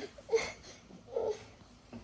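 Two short, soft breathy vocal sounds from a baby, about a second apart.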